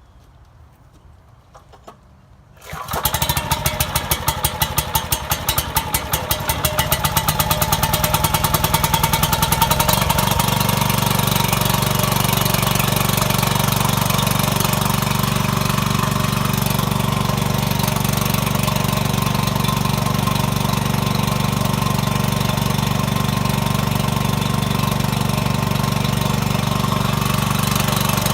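A homemade wood splitter's engine, taken from an old generator and driving a newly fitted hydraulic pump, starts about three seconds in. Its firing beats quicken over several seconds as it speeds up, then it runs steadily.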